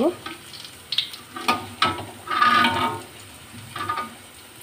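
Lentil-and-potato fritters sizzling in hot mustard oil in a metal kadai as they are turned over. A metal spatula scrapes and clinks against the pan a few times, loudest about halfway through.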